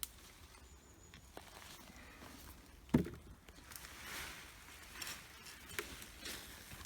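Soil and sweet potato vines rustling and crunching as a bed is dug through by hand, with scattered clicks and one sharp thump about three seconds in.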